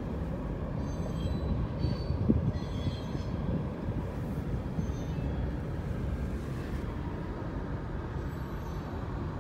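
Freight train of covered hopper cars rolling past, a steady low rumble of wheels on rail, with faint brief high squeaks now and then.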